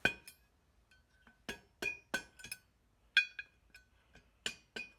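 Drift punch struck with a hammer or mallet to tap a centre disc out of an aluminium wire wheel: about a dozen light, irregular metallic taps, each ringing briefly.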